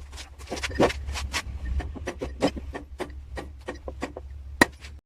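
Irregular scraping and knocking of tools working wood, over a steady low hum; the sound cuts off abruptly near the end.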